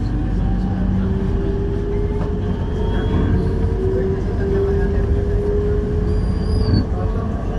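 Electric MRT train running between stations, heard on board: a steady low rumble of the carriage on the track with a motor whine that climbs slightly in pitch.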